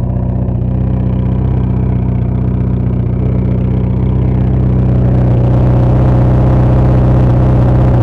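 Mk2 Volkswagen Jetta GLI's four-cylinder engine idling through a muffler-less exhaust, steady and loud, growing somewhat louder about halfway through. The exhaust leak has just been patched, and it is sounding better.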